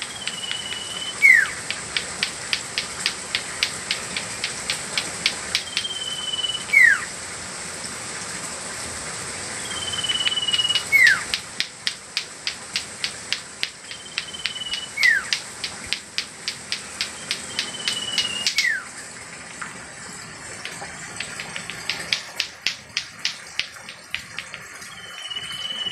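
Common iora (cipou) calling its name: a held high whistle followed by a quick falling note, 'ci-pou', repeated five or six times a few seconds apart. A rapid ticking runs beneath, pausing briefly about three quarters of the way through, over a steady high hiss.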